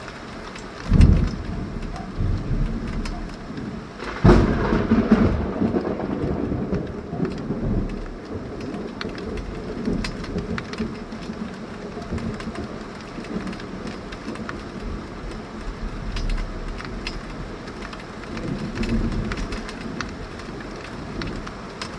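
Heavy tropical rain falling steadily, with thunder: a sharp clap about a second in, then a louder crack about four seconds in that rolls on for a few seconds, and a softer rumble near the end.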